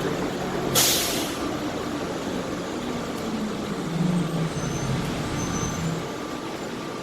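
Airport underground people-mover train running and pulling into a station, with a short hiss about a second in and a low humming motor tone through the rest.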